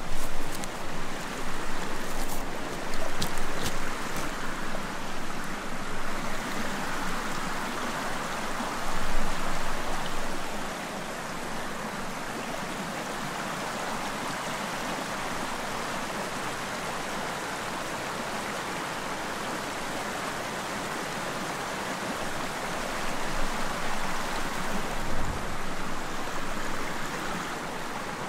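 Stream water flowing, an even rushing babble. It is louder and more uneven for the first ten seconds, with a few sharp clicks, then runs steady from about ten seconds in and grows uneven again near the end.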